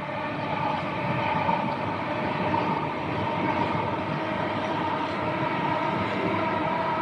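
A train passing close by: its noise builds over the first second, then holds steady as a rumble with a steady, many-toned whine over it.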